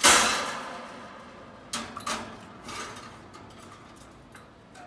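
A sudden loud clatter that fades over about a second, followed by a few softer clicks and knocks.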